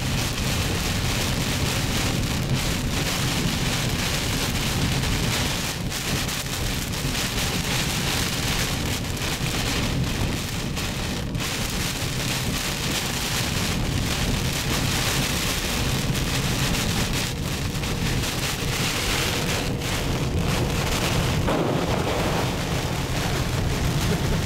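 Heavy tropical-storm rain pelting a car's roof and windshield, heard from inside the moving car as a steady, loud wash of noise.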